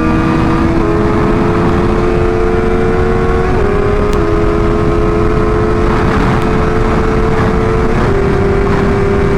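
Motorcycle engine pulling under hard acceleration, its pitch climbing slowly and dropping three times as the rider shifts up a gear, over a steady rush of noise.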